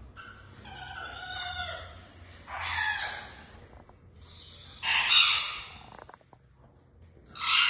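A rooster crows once, then loud harsh bird squawks come three times, about two and a half seconds apart.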